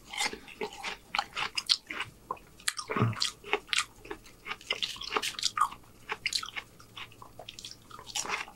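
Close-miked chewing and wet mouth smacks of a man eating juicy watermelon chunks, with many sharp clicks throughout and a brief hum about three seconds in.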